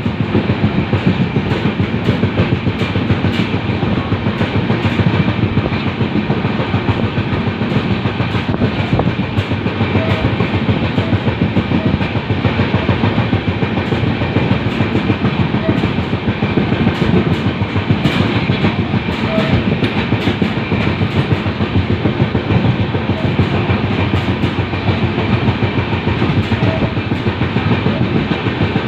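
LHB passenger coach running at speed on rail track: a steady rumble with constant quick clicking from the wheels and track.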